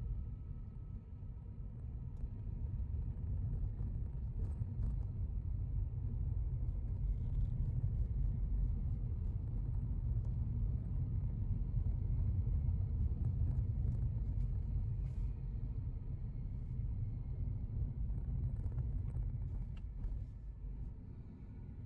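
Car driving, heard from inside the cabin as a steady low road and engine rumble that swells and eases slightly.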